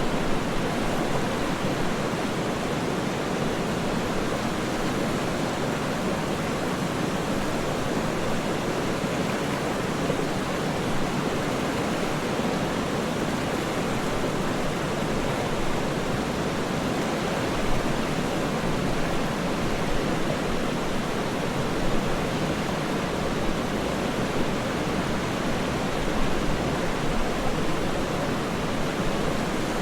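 Waterfall: a steady, even rush of falling water, with no changes or separate splashes.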